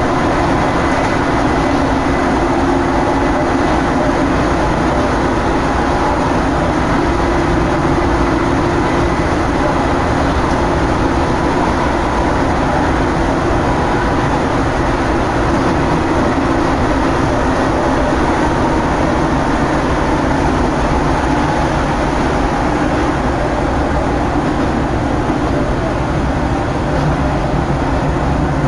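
Electric commuter train of the Daiyuzan Line running between stations: a steady, loud rumble of wheels and motors, heard from aboard the car, with a faint steady whine.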